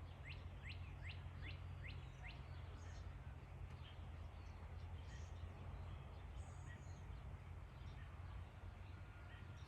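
A songbird singing a quick run of about seven short sliding notes in the first two seconds or so, then a few faint chirps here and there, over a steady low hum.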